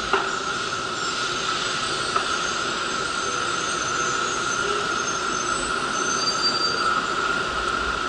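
700-series Rail Star shinkansen pulling in alongside the platform and slowing to a stop. There is a steady high whine throughout, with faint higher squeals from the wheels above it.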